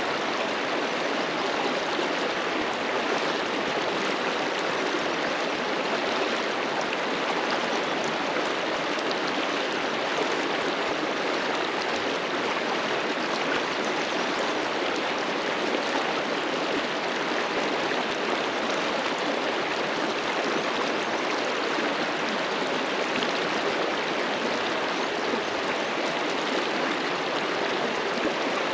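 River water rushing steadily over rocks, a continuous broad hiss of flowing stream.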